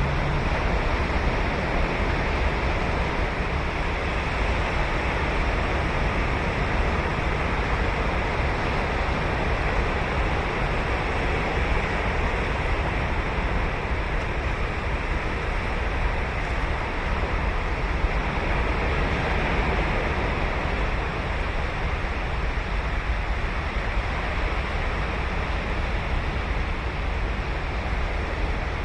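Ocean waves breaking and washing on a sandy beach, a steady surf wash with a deep rumble, and some wind on the microphone.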